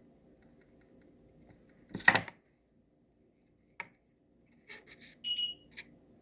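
Handling noises at a craft table: one brief clatter about two seconds in, then a sharp click and a few light clicks with a short high squeak near the end, over a faint steady hum.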